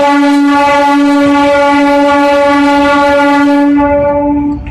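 Electric horn of the Gaya–Patna MEMU passenger train sounding one long, very loud blast at a steady pitch, cutting off near the end.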